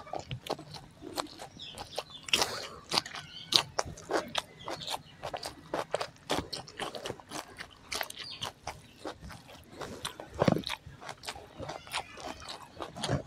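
Close-miked eating sounds: a person chewing mouthfuls of rice and raw greens, with irregular wet mouth clicks, smacking and crunches.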